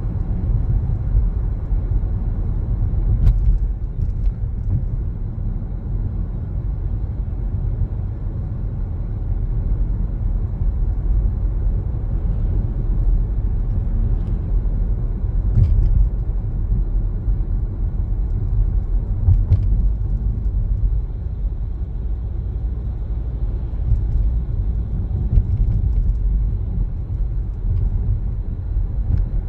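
Car driving with a steady low road and tyre rumble, and a few faint clicks.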